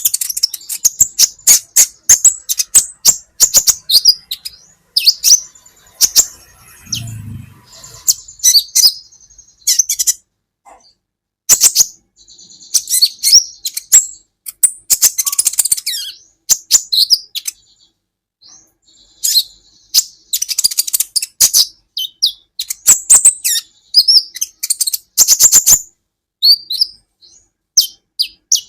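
Kolibri ninja sunbird singing: rapid, sharp, high-pitched chirps and twitters in bursts of a second or two, separated by short pauses.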